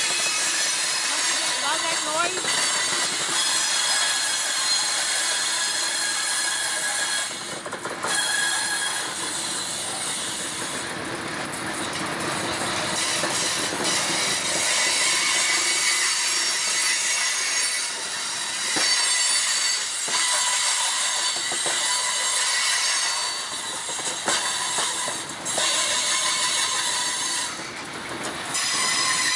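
Freight train rolling past at close range: steel wheels running on the rails, the cars rattling, with high, steady squealing tones from the wheels and scattered clicks as the wheels pass over the rail joints.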